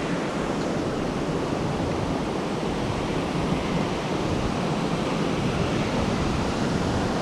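Steady rush of a fast, flood-swollen stream current.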